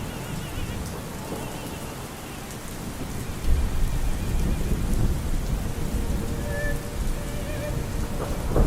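Steady rain with a low rumble of thunder rolling in about three and a half seconds in, under faint operatic singing with vibrato.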